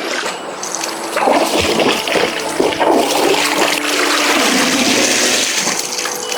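Water rushing and splashing, with irregular splashes about a second to three seconds in.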